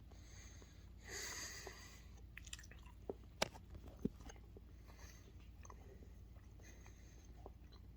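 Faint chewing and small mouth clicks as a piece of edible rice paper is eaten, with a short rustle about a second in.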